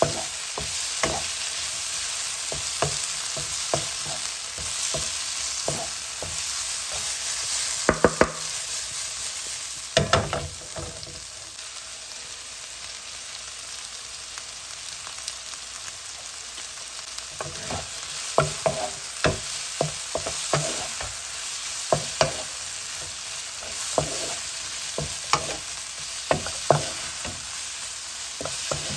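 Sliced peppers and onions sizzling in a frying pan with a steady frying hiss, stirred with a wooden spatula that scrapes and knocks against the pan in irregular taps. The taps fall off for a few seconds in the middle, then come thick and fast again.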